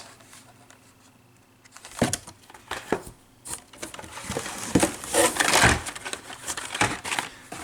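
Hot Wheels cars on blister cards being handled: plastic blisters and card backs crinkle, rustle and click against each other. The rustling starts about two seconds in and is busiest just past the middle.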